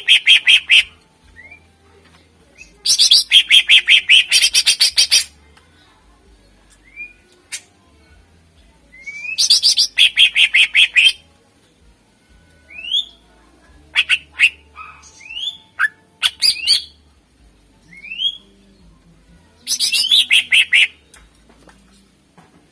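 Greater green leafbird (cucak ijo) singing loudly: four bursts of rapid chattering notes, about ten a second, with short rising whistles in between.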